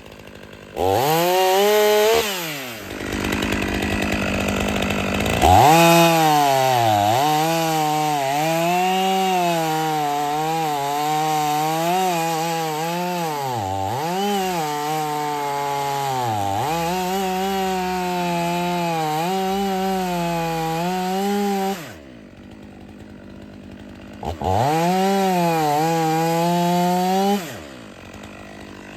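Stihl 500i two-stroke chainsaw cutting firewood. It revs briefly, then runs at full throttle through a long cut, its pitch sagging again and again as the chain loads up in the wood. About three quarters of the way in it drops to idle, then revs through one more short cut near the end.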